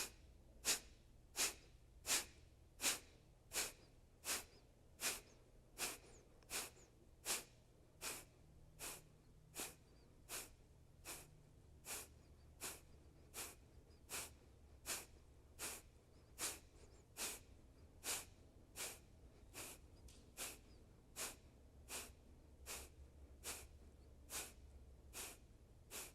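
Kapalabhati breathing: a steady run of about 36 short, forceful exhales through the nose, roughly three every two seconds, with quiet between them as the inhales happen passively.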